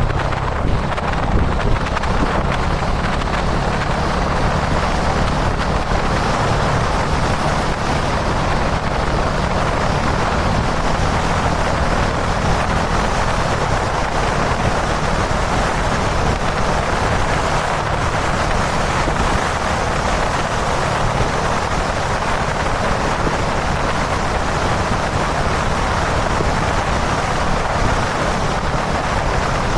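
Kawasaki Dominar 400 UG2's single-cylinder engine running at a steady cruising speed, under heavy wind rush on the microphone.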